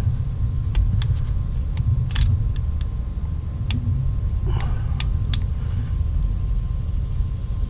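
Scattered sharp metal clicks and ticks from a hand tool prying at a small retaining washer on a transaxle's dump valve linkage, over a steady low rumble.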